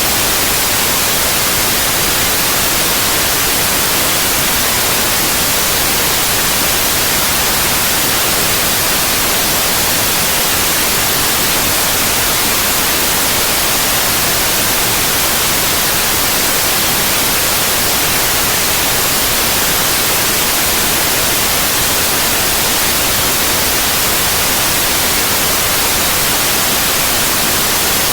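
Steady, loud white noise: an even, unbroken hiss, strongest in the high end.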